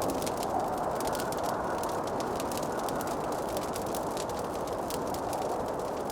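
Wood fire crackling: many small, sharp pops and snaps scattered irregularly over a steady rushing background.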